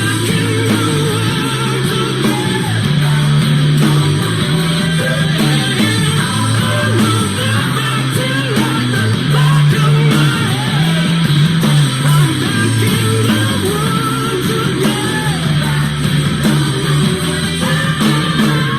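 Rock song playing: electric guitars, bass and drums with a man singing.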